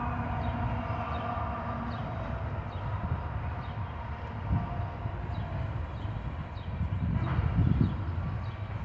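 Train rolling past with a steady low rumble, getting louder about seven seconds in.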